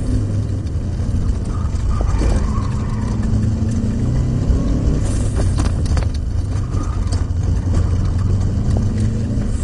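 Inside the cabin of a Subaru Impreza WRX Group N rally car, its turbocharged flat-four engine running hard along with road noise, the engine note rising and falling with the throttle. A few sharp clicks come about halfway through.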